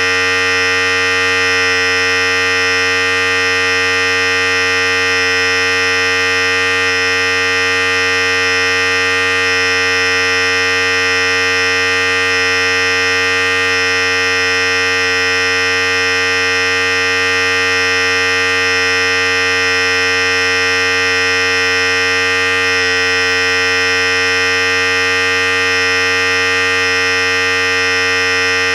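Philips Series 5000 electric clippers running continuously: a steady, unchanging electric buzz.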